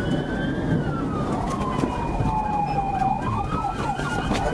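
Police car siren wailing slowly up and down, switching to a fast yelp about three seconds in, over the noise of a moving vehicle's engine and tyres.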